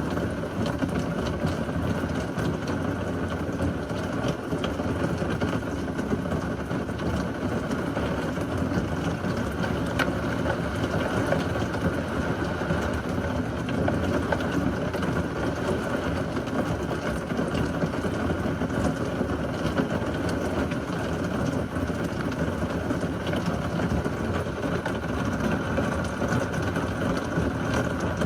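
Steady rain falling hard, with an even low hum under it.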